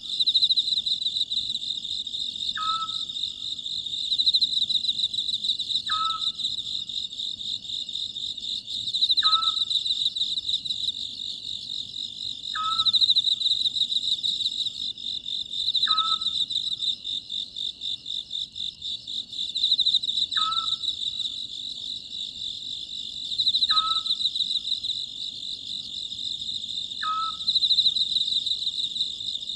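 Oriental scops owl giving its short call over and over, about once every three to four seconds. Insects chirr steadily underneath.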